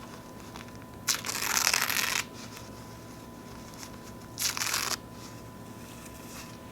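Paper napkins being torn by hand close to the microphone: one rip lasting about a second, then a shorter rip a couple of seconds later.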